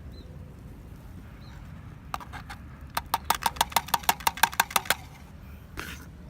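Metal cookware knocked against metal in a fast run of about a dozen sharp taps, roughly five a second, each ringing briefly. Under it runs a steady low rumble.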